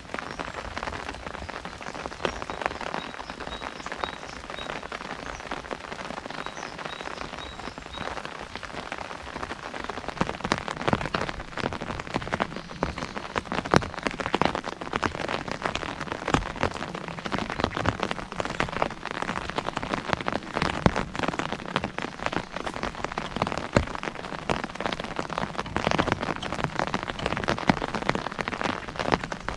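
Rain falling on an umbrella: a dense spray of drops hitting the canopy, growing heavier about ten seconds in.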